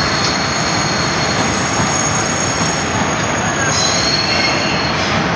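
Soekarno-Hatta airport rail link electric train running past through the station without stopping: a steady rumble of wheels on rails, with high, steady whining tones above it that change pitch about four seconds in.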